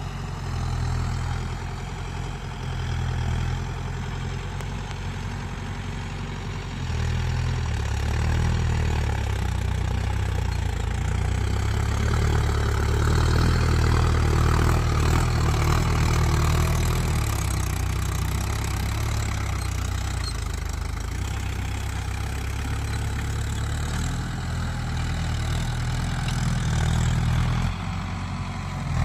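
Mahindra 475 tractor's diesel engine running steadily, growing louder about seven seconds in and easing back near the end.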